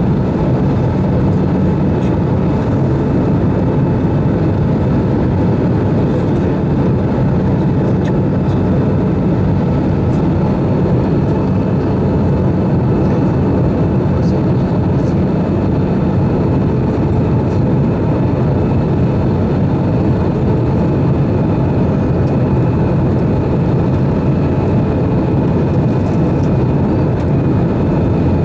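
Steady cabin noise of an Airbus A320-214 in flight: a constant rush of airflow and the hum of its CFM56 engines, with a faint steady whine.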